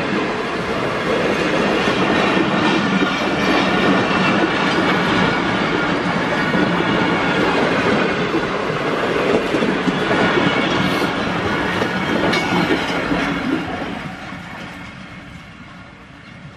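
Pakistan Railways passenger coaches rolling past close by, their wheels rumbling and clacking over the rails, loud and steady. Over the last couple of seconds it fades as the tail of the train moves off.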